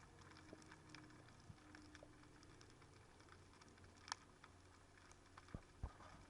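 Faint underwater crackle: irregular tiny clicks and ticks, typical of a Mediterranean seabed picked up by a camera underwater, with one sharper click about four seconds in.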